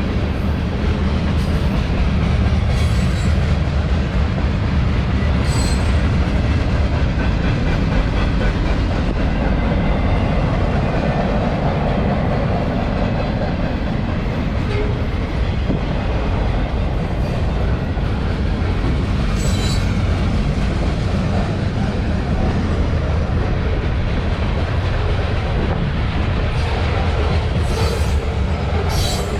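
Manifest freight train's cars rolling past in a steady heavy rumble of steel wheels on rail, with a few brief high-pitched wheel squeals or clanks along the way.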